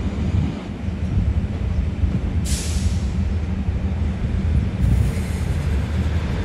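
Train rumbling steadily, with a short burst of hissing about two and a half seconds in.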